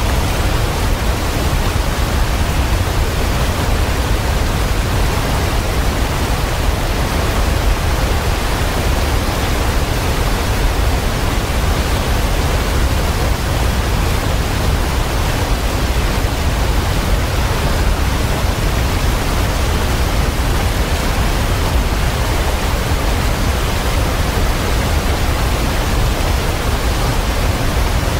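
Waterfall: a steady, unbroken rush of falling water, full in the low end, with no birdsong or other sounds standing out.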